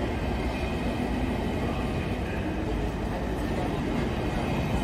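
Deutsche Bahn ICE high-speed train rolling past along the platform: a steady, even rumble of wheels and running gear.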